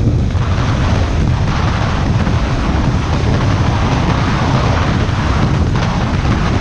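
Wind buffeting the microphone on a moving Kawasaki Ninja 400, with the parallel-twin engine's modified exhaust running under it at a steady pace.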